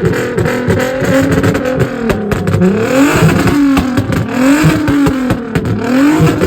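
Car engine revving hard several times, its pitch climbing and dropping with each blip of the throttle, amid sharp crackles.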